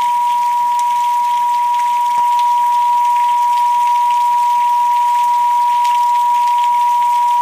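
A steady, loud pure sine tone a little under 1 kHz, the 'pineal frequency' meditation tone, held without change. Under it runs a layer of recorded rain with scattered drop ticks. There is a faint click and a slight step up in loudness about two seconds in.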